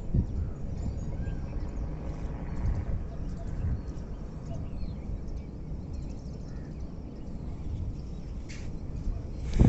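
Outdoor rural ambience: faint bird calls over a steady low rumble, with one short sharp noise near the end.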